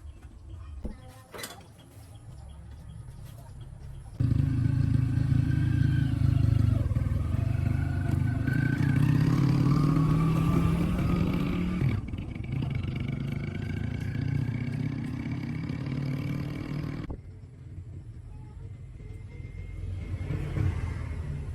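Win 100cc motorbike engine, freshly rebuilt with a new cylinder and clutch, running. It comes in suddenly about four seconds in, changes and eases off slightly about twelve seconds in, and drops to a quieter level after about seventeen seconds.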